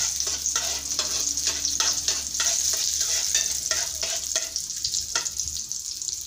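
Cashew nuts sizzling as they fry in hot ghee in a frying pan, with a metal spoon clicking and scraping against the pan at an uneven pace as they are stirred.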